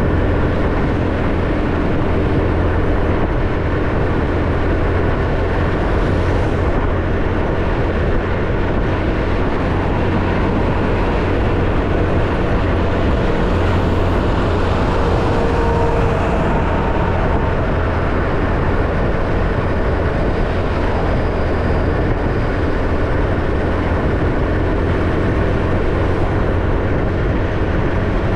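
Motorcycle engine running steadily at riding speed, mixed with wind and road noise rushing over the microphone.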